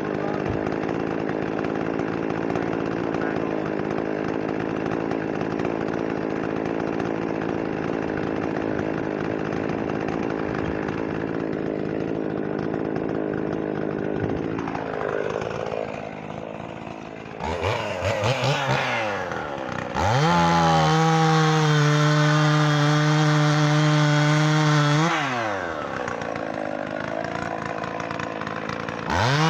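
Gas chainsaw running steadily, then revving up and down in pitch and holding at full throttle for about five seconds before dropping back; it revs up again at the end.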